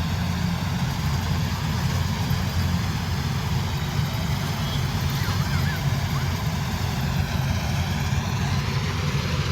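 Combine harvester's diesel engine running steadily under load, a continuous low drone, with a faint higher whine that rises in pitch near the end.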